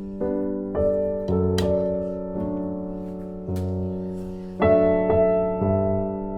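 Background piano music: slow, gentle notes and chords, each ringing and fading before the next, with a louder chord struck near the end.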